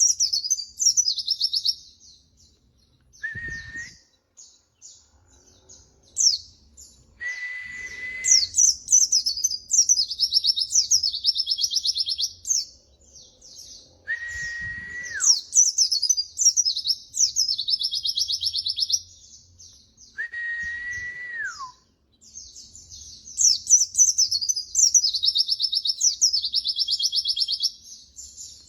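White-eye (pleci) song: bursts of rapid, high twittering in phrases a few seconds long. Between them comes a long, level whistle that drops in pitch at its end, heard about five times.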